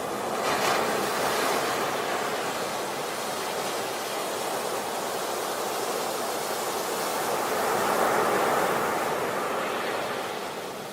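Sea waves washing onto a beach: a steady rush of surf that swells as a wave breaks about a second in and again around eight seconds, then eases off near the end.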